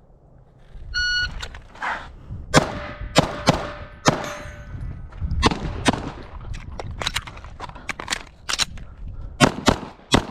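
Shot timer beep about a second in, then a string of Glock pistol shots fired in quick pairs and clusters, with a brief gap partway. A malfunction occurred during this run.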